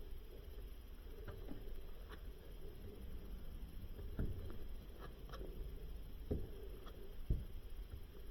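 A few light, sharp knocks and clicks spread over several seconds, over a low steady hum.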